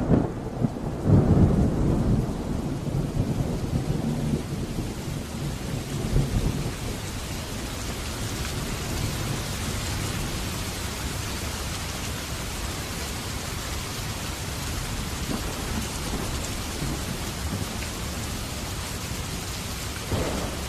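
Steady rain, with a low rumble of thunder over the first few seconds that dies away.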